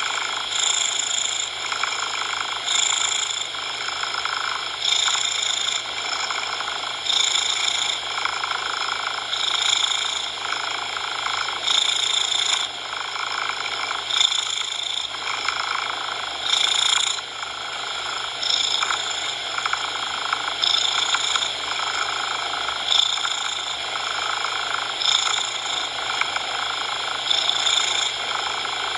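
Domestic cat purring continuously, swelling and easing in a regular cycle about every two seconds as it breathes in and out.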